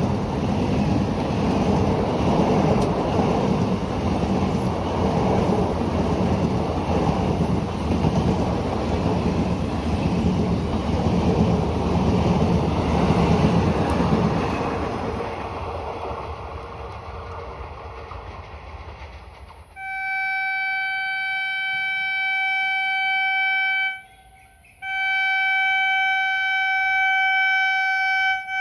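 A train passing through, with loud rumbling and wheel clatter that fades away as it goes. About two-thirds of the way in, a long steady horn tone cuts in abruptly, breaks off once for about a second, then resumes.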